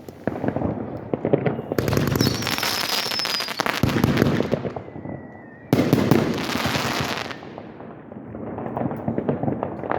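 Fireworks going off in rapid, dense crackling and popping, with two louder crackling barrages and a brief whistle among them.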